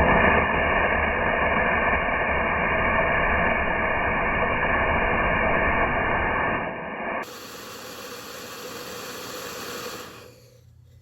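Homemade solid-propellant rocket motor with a PVC casing and 3D-printed de Laval nozzle burning on a test stand: a loud, steady hiss. About seven seconds in it switches abruptly to a quieter, brighter hiss that dies away near ten seconds as the burn ends.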